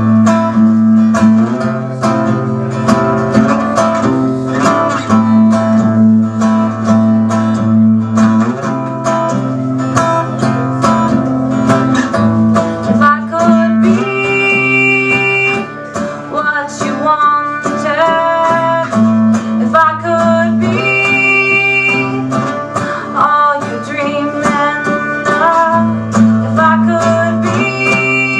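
Live acoustic music: guitar strumming held chords in an instrumental stretch of a folk song, with a high sustained melody line coming in and out over it.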